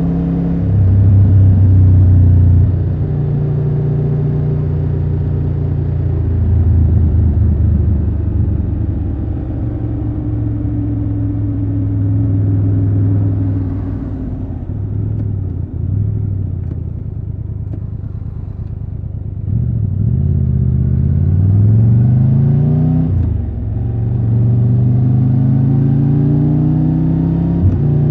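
Triumph Tiger 1200 Rally Pro's inline three-cylinder engine running under way. It pulls hard near the start and runs quieter through the middle. Later it climbs in pitch under acceleration, breaks off briefly for a gear change, and pulls again near the end.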